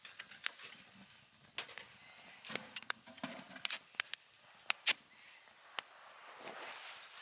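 Scattered light clicks and knocks, irregular, with a few short high chirps in the first two seconds.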